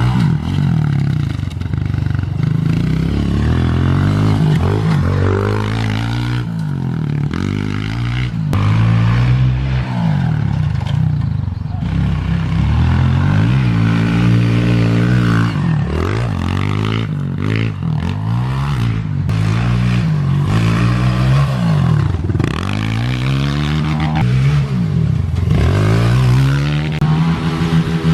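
Four-stroke Honda pit bike engine being ridden hard, revving up and dropping back over and over as it is throttled and shifted through the gears.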